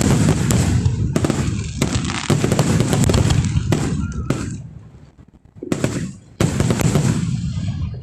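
Fireworks display: a rapid barrage of shell bursts and crackling reports with a deep rumble, dying down about halfway through, then a fresh barrage near the end.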